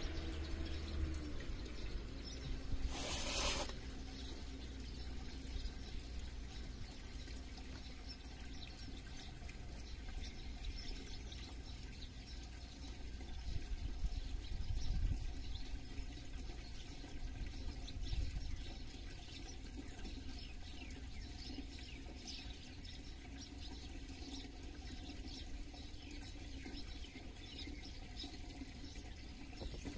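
Outdoor countryside ambience: faint, scattered bird chirps over a steady low rumble, with a short hiss about three seconds in and low swells in loudness around the middle.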